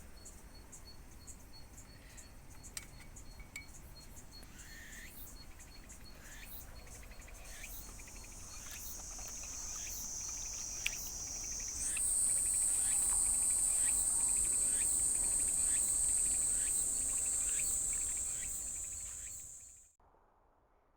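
Summer insects calling: a high, shrill, steady buzz that starts about a third of the way in, jumps higher and louder about halfway, then stops abruptly near the end. Under it are a faint regular chirping and a few short calls.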